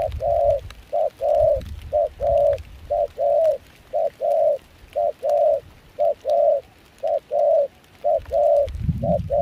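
Spotted dove cooing over and over at a steady pitch, each call a short note followed by a longer one, about once a second.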